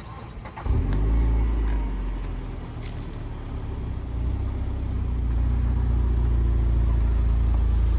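A vehicle engine starts up close by, with a sudden rumble less than a second in. It keeps running steadily, dipping briefly and then building a little louder.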